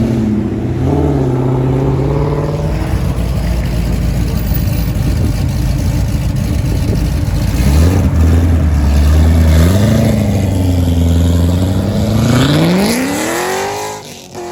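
Car engine revving: held at raised revs for several seconds, then revved up sharply about two seconds before the end and dropping back.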